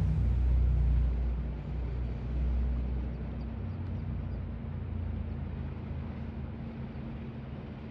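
Aircraft engines rumbling low as a plane passes, the sound fading steadily as it moves away.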